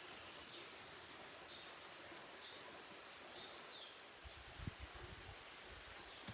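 Faint forest ambience: a steady hiss with a small bird's thin, high, level calls repeating for the first few seconds, then a few low dull thumps near the end.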